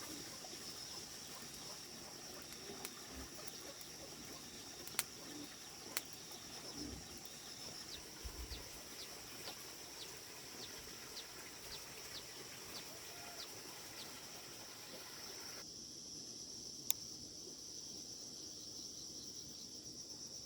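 Rural outdoor ambience: a steady high insect drone, with a bird giving a series of short falling chirps in the middle and a few sharp clicks. The lower background noise drops away abruptly about three quarters of the way through.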